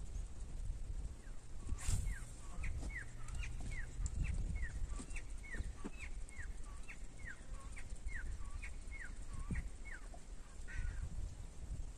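A bird calling a long, even series of short, sharp notes, each falling in pitch, about two a second, over a steady low rumble. One sharp click sounds just before the calls begin.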